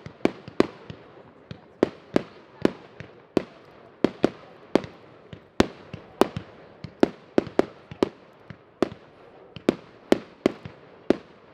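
Fireworks going off in a rapid, irregular series of sharp bangs, about two or three a second and of varying loudness, each trailing off in a short echo.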